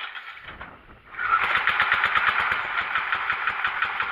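Simplicity garden tractor engine being cranked over by its electric starter in two tries: a short crank that stops about a second in, then a longer, even crank of about three and a half seconds.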